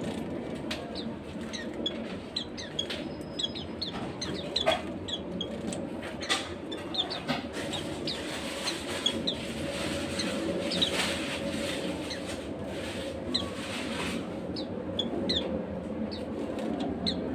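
Pet white-eyes (pleci) giving many short, high chirps, with a few sharp clicks, over a steady low background din.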